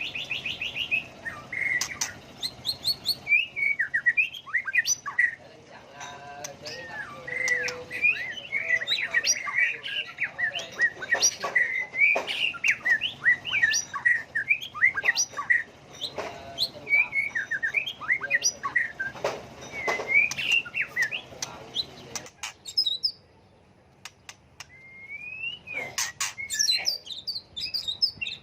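White-rumped shama singing a fast, varied song that keeps switching between whistled phrases, trills and sharp clicks. The song pauses briefly about four-fifths of the way through, then starts again with a rising whistle.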